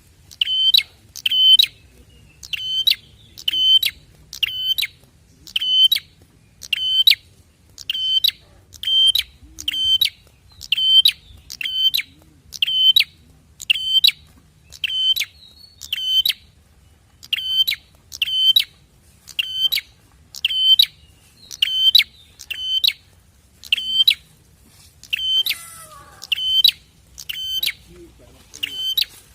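Prenjak (prinia) calls played as a lure. A sharp, loud, ringing note is repeated over and over, mostly in pairs, at about two notes a second.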